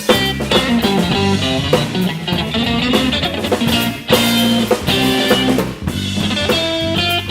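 Live blues-rock band playing an instrumental passage: electric guitar, bass guitar and drum kit.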